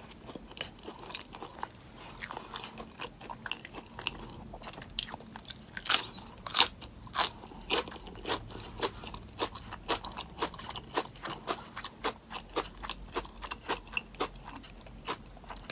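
Close-miked chewing of a forkful of homemade animal-style fries: wet mouth clicks and crunches, a few a second, loudest around six seconds in.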